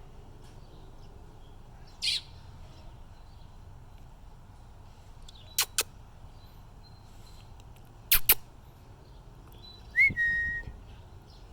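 Baby American robin calling with scattered short, sharp chirps, some in quick pairs, and near the end a clear whistled note that rises and then holds steady.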